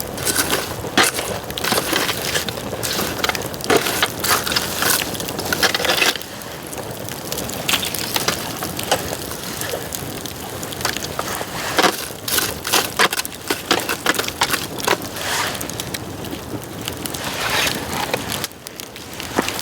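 Bamboo burning in a campfire, crackling with many irregular sharp snaps and pops over a steady noisy hiss.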